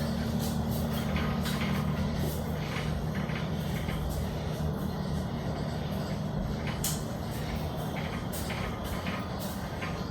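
A machine's motor running steadily, with a low hum and scattered metallic clicks and knocks.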